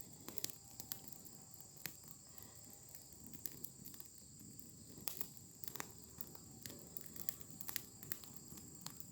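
Brush-pile bonfire crackling, with scattered sharp pops at irregular intervals, over a steady high-pitched chirring of insects.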